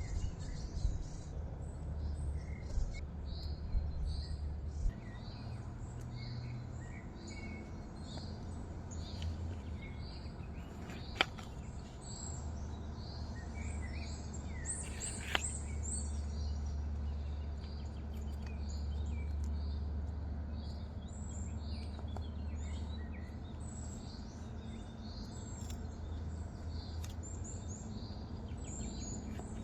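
Small birds chirping over and over, with a steady low rumble beneath and a few sharp clicks, two of them standing out near the middle.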